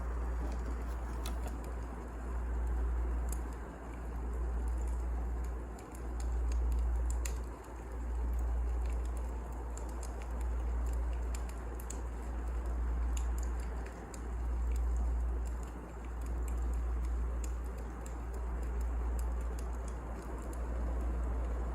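Wood fire burning: a low rumble that swells and dips every couple of seconds, with scattered sharp crackles and pops of the burning logs.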